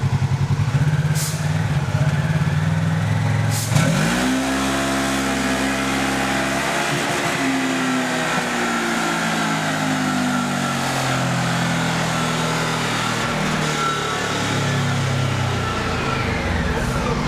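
2011 Polaris RZR XP 900's twin-cylinder engine at idle, then taken to full throttle about four seconds in for a dyno pull: it revs up quickly, stays high for about twelve seconds, and drops back to idle near the end. It runs through an open exhaust end cap with the spark arrestor removed.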